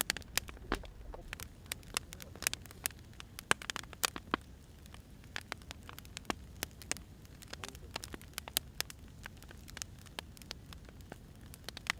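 Firewood burning with irregular crackles and snaps, several a second, over a faint low rumble.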